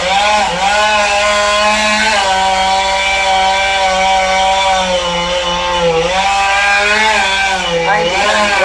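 Gasoline chainsaw running at high speed, cutting into a tree trunk being felled; its engine pitch sags briefly a few times as the chain loads up in the wood.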